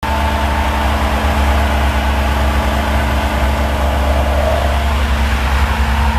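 Truck engine running steadily, a deep even drone.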